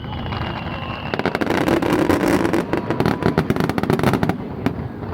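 Fireworks crackling: a dense, rapid run of sharp pops for about three seconds over a low rumble, stopping suddenly near the end.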